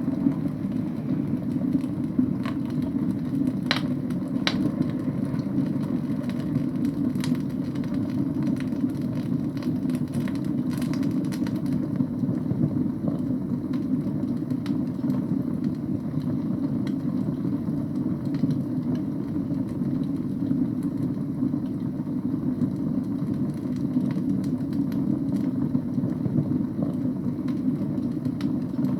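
Wood fire burning in a fireplace: a steady low rumble of flames with a few sharp crackles and pops from the logs, mostly in the first half.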